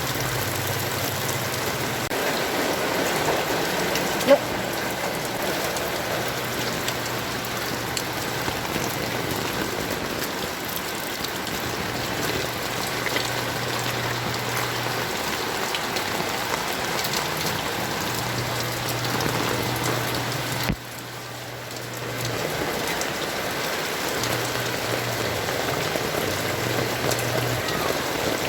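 Heavy rain falling steadily, with one sharp click about four seconds in and a sudden brief drop in level about 21 seconds in.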